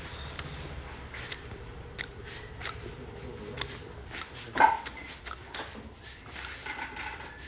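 Close-up eating sounds of a man chewing rice noodles and a fried spring roll: a run of sharp, wet mouth clicks and crunches, with one louder mouth sound about four and a half seconds in.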